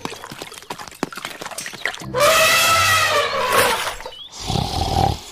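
An animal cry, long and loud, its pitch arching up and then falling, about two seconds in, after a run of light clicks; a shorter, steadier call follows near the end.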